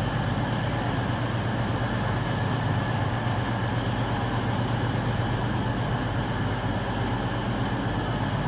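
Diesel passenger train's engines running steadily at a station platform, a low even drone that holds without revving up or down.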